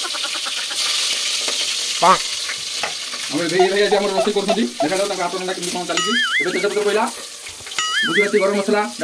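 Food frying in hot oil in an aluminium pressure-cooker pot, a steady sizzle with stirring. From about three seconds in, background music with wavering melodic notes plays over it.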